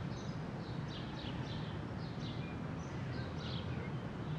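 Small birds chirping in open scrubland: a string of short high chirps, two or three a second, over a steady low outdoor background noise.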